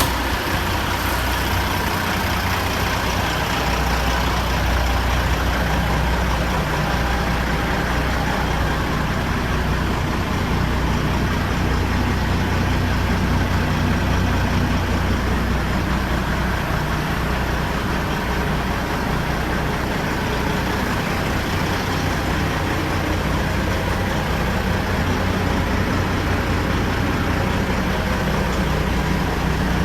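Diesel engine of a 1999 Kenworth W900 dump truck running steadily at an even speed.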